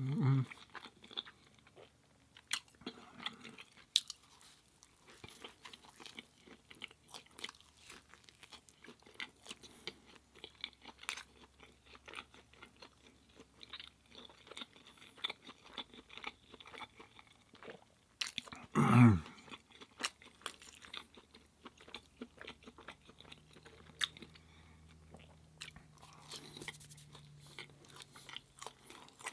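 Close-miked chewing and crunching of food in a person's mouth: irregular small wet clicks and crunches. About two-thirds of the way through comes one louder, brief mouth or throat sound with a low falling tone.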